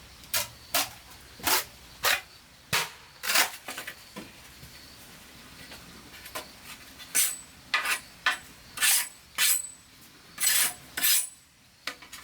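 Irregular series of about fifteen sharp, bright clinks and knocks of hard objects striking, a few with a brief high ring.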